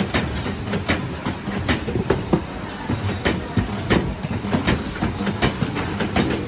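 Metalworking factory noise: irregular sharp metal clanks and clicks, one to three a second, over a steady low machinery rumble.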